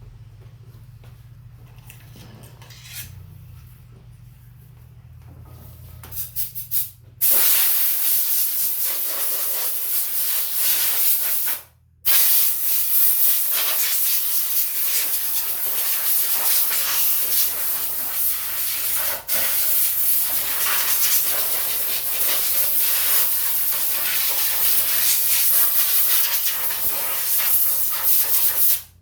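Compressed air hissing from a blow gun as loose dirt is blown off the stump grinder. A few short blasts come about six seconds in, then a long continuous blast that stops briefly about twelve seconds in and then carries on.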